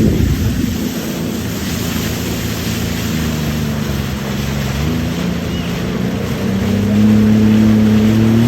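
Jet ski engine running on the water. Its pitch drops sharply at the start as it throttles back, then rises in steps and gets louder about seven seconds in as it speeds up again, over a hiss of wind and water.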